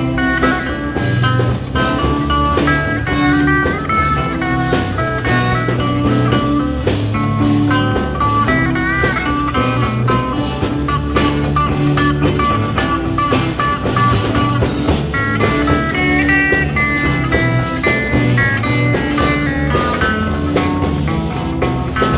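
Live psychedelic rock band playing an instrumental break: an electric guitar lead picking out running melodic lines over bass and drums.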